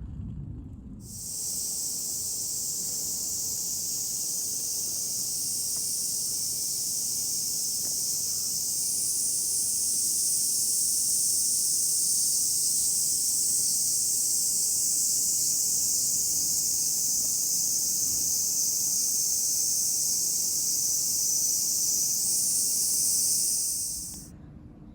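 Steady high-pitched chorus of cicadas, a continuous sizzling drone that starts abruptly about a second in and cuts off just before the end.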